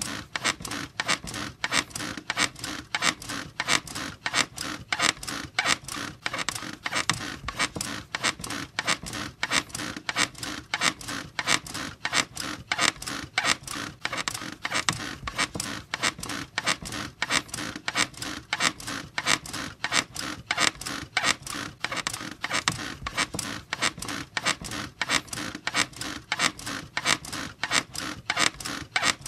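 A squeaky bed squeaking over and over in a fast, even rhythm.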